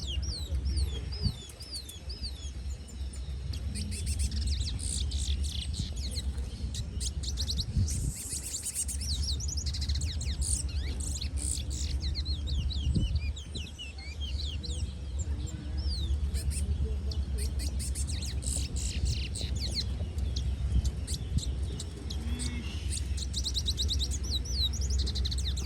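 Birds chirping: many quick, high, sweeping chirps and short fast trills, overlapping through the whole stretch, over a steady low rumble.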